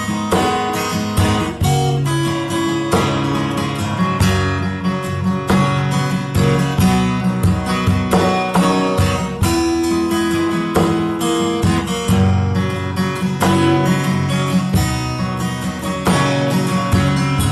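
Music: a strummed acoustic guitar playing a steady rhythm.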